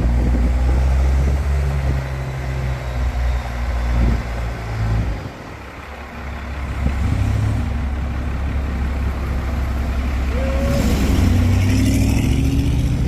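A 3/4-ton diesel square-body pickup's engine running under load as the truck bounces along a rough trail, with knocks and rattles from the body. The engine note drops off about five seconds in, then builds again, and a short squeak sounds near the end.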